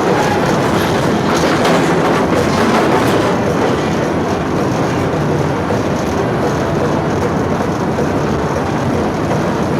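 Petit Train de La Mure running on its track: a steady rumble of wheels on rail, with a few faint clicks in the first three seconds.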